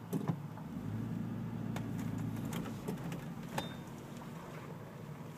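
Cabin sound of a 1994 Toyota Land Cruiser's 4.5-litre inline-six with a Magnaflow exhaust, a low, steady drone heard with the windows up. The drone swells a little between about one and three and a half seconds in. A few light clicks sound over it.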